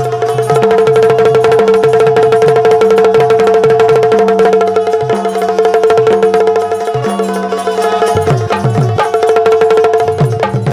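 Instrumental passage of Bundeli Rai folk music: fast, dense hand-drum rhythm with low strokes that bend in pitch, over one steady held note.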